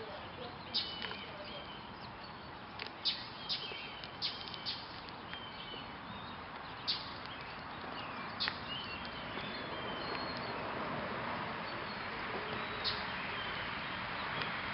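Small birds chirping, with short sharp high chips and brief twittering notes at irregular intervals over a steady background hiss.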